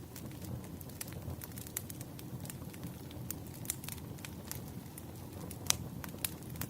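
Campfire crackling: a steady low rumble of burning wood with irregular sharp pops and snaps, one louder pop late on.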